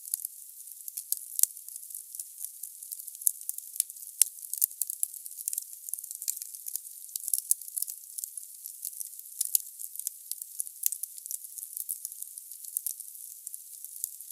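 Firewood burning in a fireplace: a dense, fast crackle and hiss, with a few sharper pops about a second and a half and about four seconds in.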